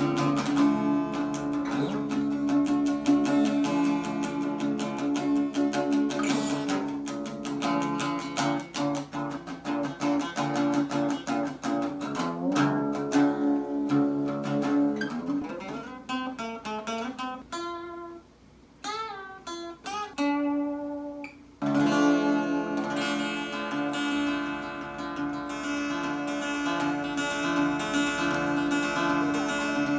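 Acoustic guitar playing a busy run of plucked notes. About halfway through, the notes thin out into gliding, wavering tones and grow quieter, then the full guitar comes back in abruptly about two-thirds of the way in.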